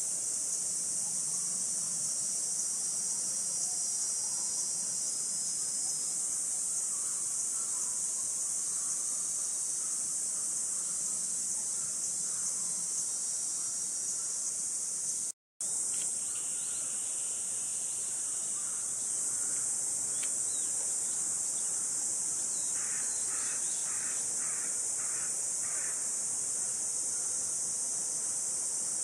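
Dense, steady high-pitched drone of a cicada chorus in summer. It cuts out for a moment about halfway through and resumes unchanged.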